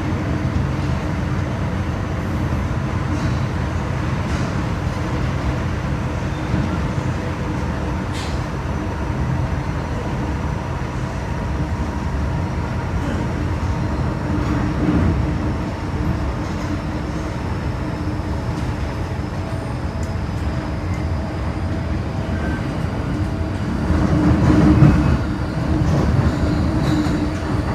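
MTR M-Train electric multiple unit running between stations, heard from inside the car: a steady rumble of wheels and running gear with steady motor hum tones, rising a little in level near the end.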